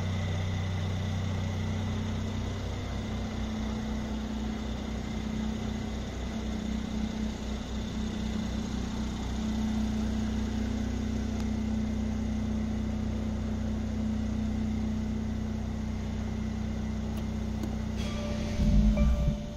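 The twin-turbocharged V6 of a Mercedes-Benz C450 AMG idling steadily with a low, even hum. A single loud thump comes near the end.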